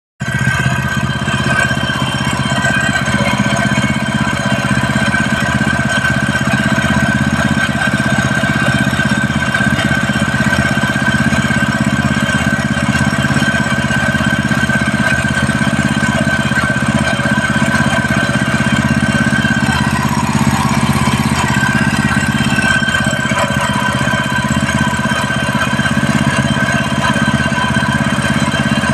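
A 7.5 hp gasoline engine running steadily at a constant speed, with a steady high tone over the engine note.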